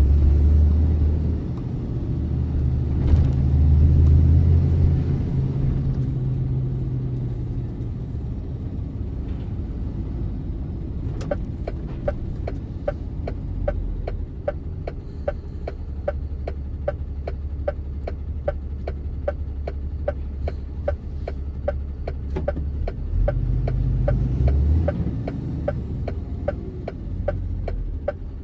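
Truck engine running with a steady low rumble that swells at times as the truck pulls away. From about eleven seconds in, a regular quick ticking, two to three ticks a second, runs over it.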